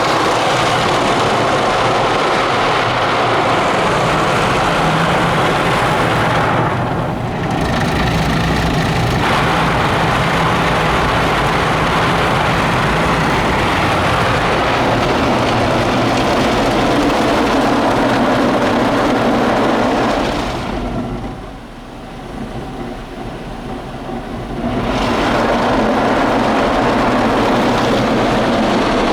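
Mark VII soft-touch car wash working on the car, heard from inside: brushes scrubbing and water spraying over the body in a loud, steady wash of noise with a low hum under it. It eases briefly about a quarter of the way in and drops for a few seconds past the two-thirds mark before building back up.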